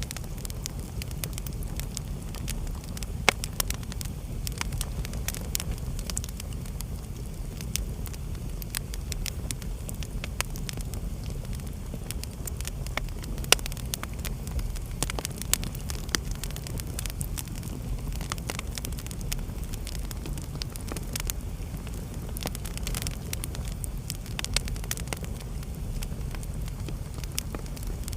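Wood fire burning in a fireplace: a steady low rumble of flames with frequent sharp crackles and occasional louder pops.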